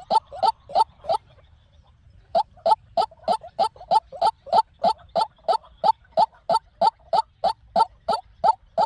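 White-breasted waterhen calling: a fast, even run of short, sharp notes, about three a second. The run breaks off about a second in and starts again a second later.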